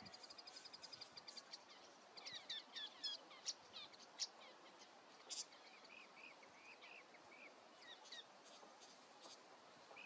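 Songbirds chirping faintly: a quick trill of rapid high ticks in the first second and a half, then a flurry of short chirps and sweeping notes, thinning to scattered soft chirps.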